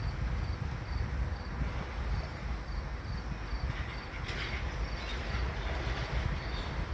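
Wind buffeting the microphone in a low, uneven rumble, with an insect chirping faintly and evenly, about three chirps a second. A brief rustle comes about four seconds in.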